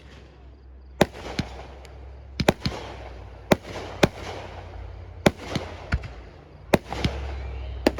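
Fireworks display: about a dozen sharp bangs going off at uneven intervals, some in quick pairs, with crackling and echo between them.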